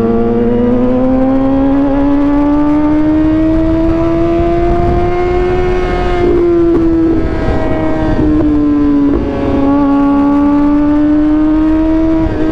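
Suzuki GSX-R 750's inline-four engine pulling on part throttle, its pitch climbing slowly, dipping about halfway through, then climbing again, over steady wind noise.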